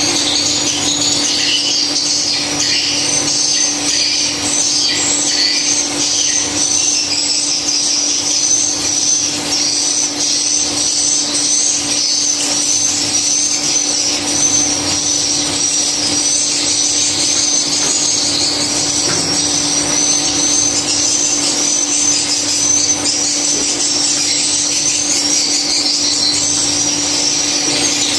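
Swiftlets twittering: a continuous run of high chirps repeating about once a second, over a steady low hum.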